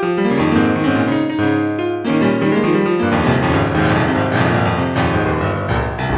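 Piano music, slow sustained chords with a deeper bass entering near the end.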